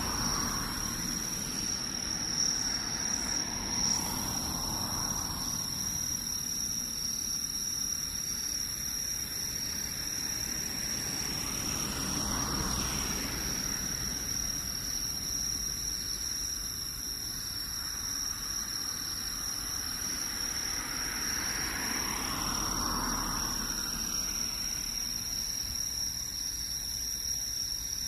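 Insects trilling in one steady high-pitched tone, with a few broad rushing swells that rise and fade over a second or two.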